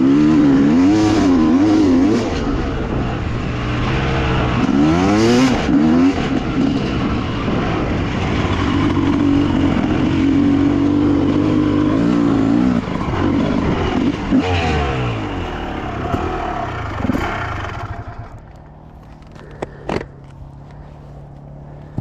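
Dirt bike engines revving and running, their pitch rising and falling repeatedly. About 18 seconds in they fall away, leaving a lower steady engine hum and a couple of sharp knocks.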